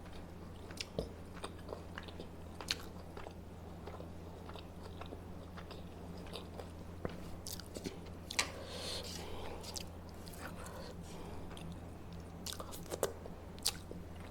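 A person chewing and biting food close to the microphone, with scattered small crunches and mouth clicks, over a steady low hum.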